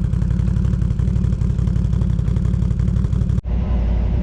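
Quad bike engine running steadily with a rapid low pulsing. About three and a half seconds in it cuts off abruptly and another engine carries on.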